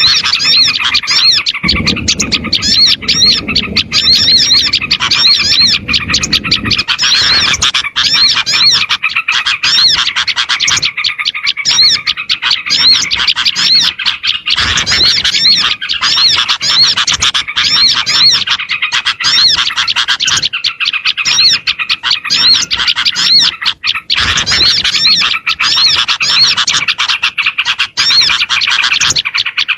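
Bird-lure recording of many small birds chirping together in a dense, unbroken chorus of fast, repeated high notes. It is the kind of mixed small-bird call played to draw wild small birds in. A low rumbling noise sits under it for a few seconds near the start.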